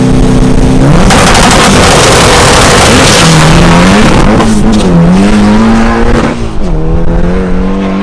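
Turbocharged 2276cc VW Beetle drag engine held at a steady rev, then about a second in going to full throttle, very loud, its pitch rising and dipping for several seconds. Near the end the loud noise falls away, leaving a steady engine tone.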